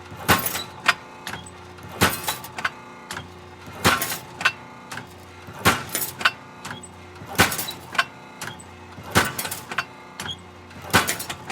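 Hydraulic metal shear running, pounding in a regular cycle: a loud clank about every second and three quarters, each followed by a few smaller rattles and squeaks, over a steady machine hum.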